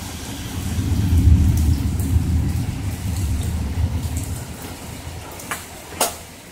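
Rolling thunder: a low rumble that swells, peaks and fades away over a few seconds, over steady rain. Two sharp taps near the end.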